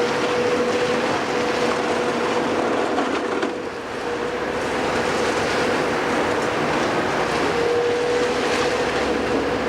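Heavy demolition machinery running steadily, with a constant whine over the engine noise and a few faint clicks.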